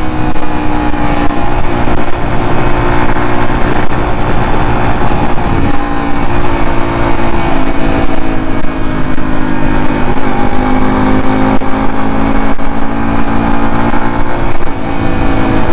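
Motorcycle engine running steadily at cruising speed with wind and road rush, its note shifting slightly a few times.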